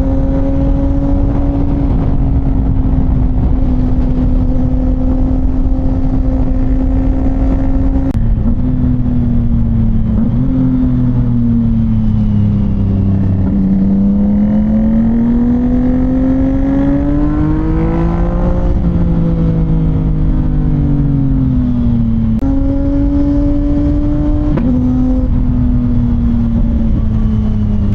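CFMOTO 675NK's three-cylinder engine running through a titanium full-system exhaust while riding. It holds steady revs at first, then the engine note sags, climbs and falls again through the middle, and steps back up about 22 seconds in.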